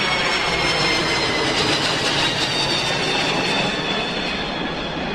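Jet-plane sound effect: a steady rushing roar with thin whining tones that slowly fall in pitch, easing slightly toward the end.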